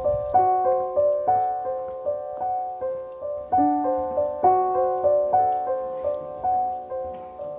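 Background music: a gentle solo piano melody of single struck notes at an even, unhurried pace.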